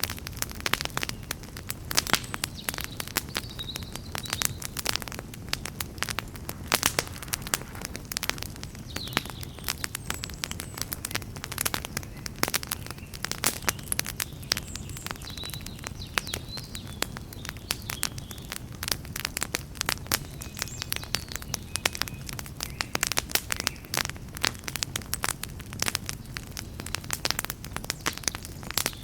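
Wood campfire crackling and popping, with dense irregular snaps over a steady low rush of flame.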